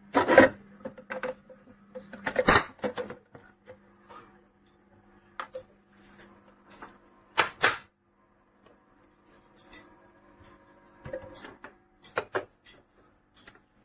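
Irregular sharp clicks and knocks, the loudest near the start, about two and a half seconds in and about seven and a half seconds in, over a faint steady hum.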